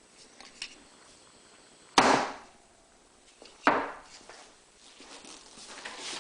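Generator engine valve cover being rapped on a counter: two sharp knocks about a second and a half apart, with a few faint clicks. This is done to work the inner breather plate (PCV valve) loose from the cover.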